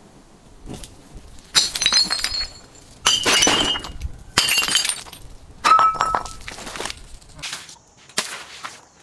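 Glass bottles being smashed: four loud crashes, each followed by the high ringing and tinkle of shards, with a few smaller breaks near the start and end.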